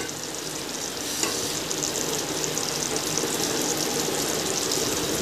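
Mutton curry frying and sizzling in a kadai on a gas burner while a wooden spatula stirs it. The sizzle is steady and fine-grained, with a light clack about a second in.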